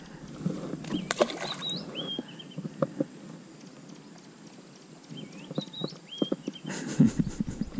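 A bird whistling a short phrase of rising and falling notes, twice. Scattered knocks and clicks from handling a fish and lure, with a quick run of sharper knocks near the end that is the loudest part.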